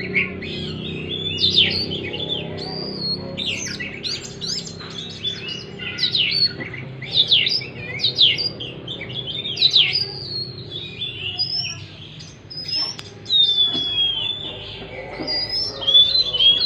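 Oriental magpie-robin singing a fast, varied song of sweeping whistles and chirps, with notes following one another without a break, over a faint steady hum.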